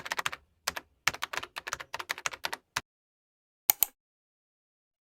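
Computer-keyboard typing clicks, quick and irregular, with a pause of about a second past the middle. Dead silence lies between the clicks, as in a typing sound effect laid over the edit.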